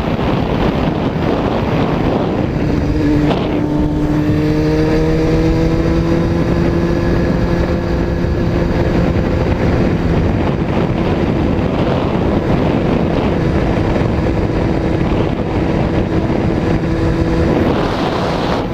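Honda CBR600F4i sport bike's inline-four engine running under way, heard over heavy wind rush on the microphone and the hiss of a wet road. About three seconds in the engine note drops away, as in a gear change, then climbs slowly as the bike pulls.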